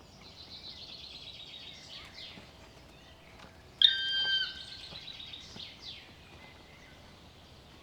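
Birds calling: a fast run of high chirps, then about four seconds in a single loud, drawn-out clear call lasting over half a second, followed by softer down-slurred chirps.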